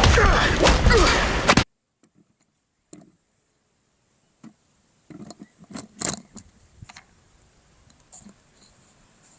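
Dense film soundtrack audio cuts off suddenly about a second and a half in. After a short silence come scattered faint clicks and knocks of toy parts being handled, with the strongest cluster a little past halfway.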